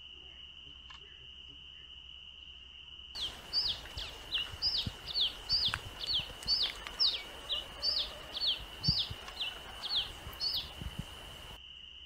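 Red-capped cardinal calling: a quick series of short down-slurred whistled notes, about two a second, starting about three seconds in and stopping abruptly shortly before the end. A steady high-pitched insect buzz runs underneath.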